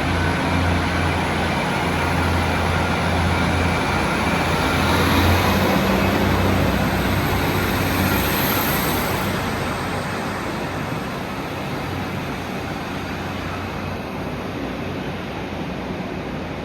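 A train moving through a station: a low hum and continuous running noise that gradually fade away in the second half.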